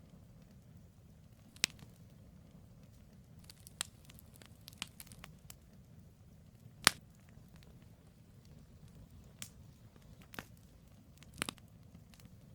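Wood campfire burning: irregular sharp crackles and pops over a low, steady rumble of the flames, with the loudest pop about halfway through.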